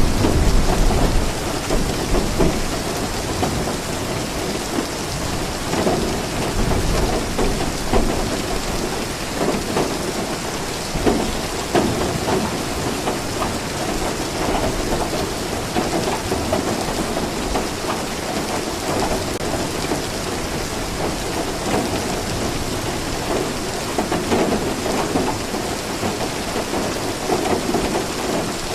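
Steady rain falling, with a low rumble of thunder in the first couple of seconds.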